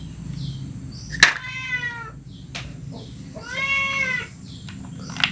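A cat meowing twice, two drawn-out calls about two seconds apart, over a low steady hum, with a sharp click just before the first call.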